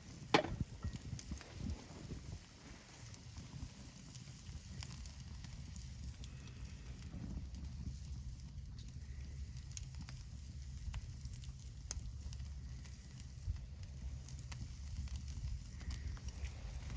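Wood campfire crackling, with scattered small pops over a steady low rumble and one sharp pop just after the start.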